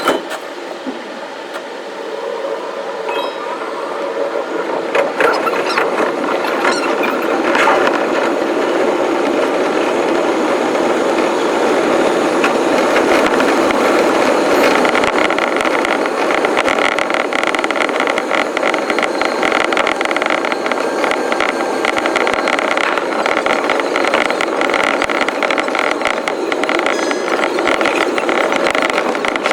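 Electric commuter train running on the rails, heard from the front of the train and played back sped up fivefold. It builds over the first few seconds into a steady, loud running noise.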